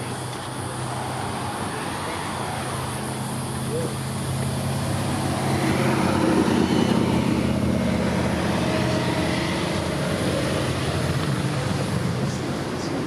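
Onboard machinery of an ADtranz/Bombardier Variotram low-floor tram: a steady hum from its air conditioning and auxiliaries, swelling louder for a few seconds midway.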